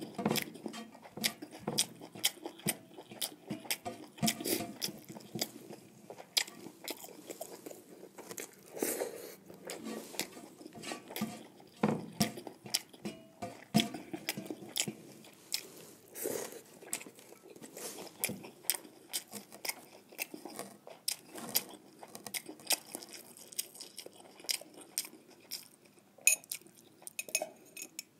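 Close-up chewing of a meal of jeera rice and fried buffalo tongue, with many short, irregular mouth clicks and smacks.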